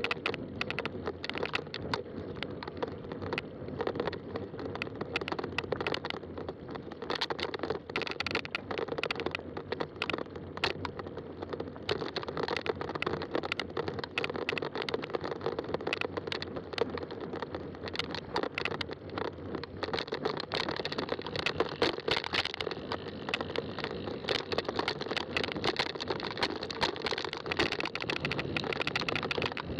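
Fat-tire bike rolling along a trail: steady tyre noise on the ground, thick with fine crackling and rattling from the bike.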